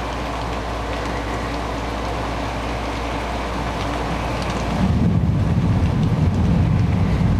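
Steady rain falling. About five seconds in, a low rumble of thunder sets in and makes it louder.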